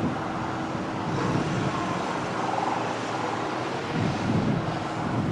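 Steady aircraft noise with wind-like rush and a faint constant hum, swelling in loudness a few times.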